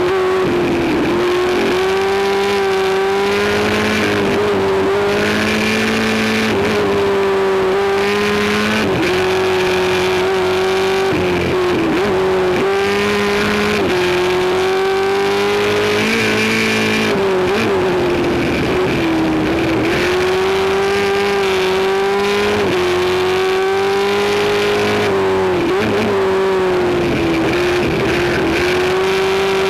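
Race car engine running hard at high revs on a Pikes Peak hill climb run, loud and steady. Its pitch briefly dips and climbs back every few seconds as the driver lifts, shifts and gets back on the throttle.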